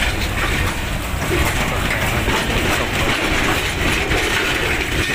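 Freight train's covered box wagons rolling past close by: a steady, loud rumble of steel wheels running on the rails, with light clicks.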